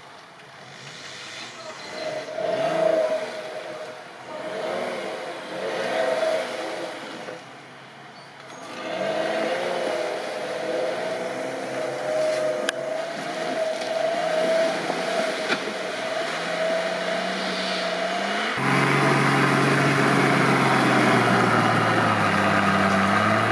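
Off-road 4x4's engine revving up and down again and again, with a steady whine running underneath. About eighteen seconds in, the sound changes suddenly to a louder engine held at steadier revs.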